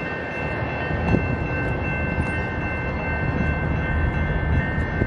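Canadian National freight train rolling past: a low rumble with a steady high whine made of several tones, and a few faint clunks.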